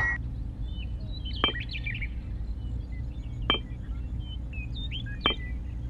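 Birds chirping: three sharp chirps about two seconds apart with scattered brief high twitters between them, over a steady low hum.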